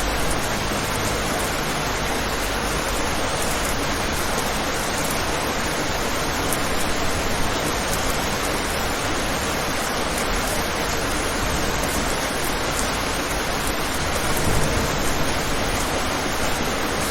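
Steady rain falling on a window: an even hiss with no let-up.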